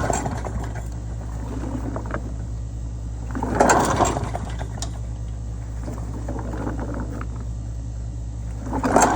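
Small single-cylinder 3.5-horsepower push-mower engine running steadily, with louder swells of noise at the start, about four seconds in and near the end.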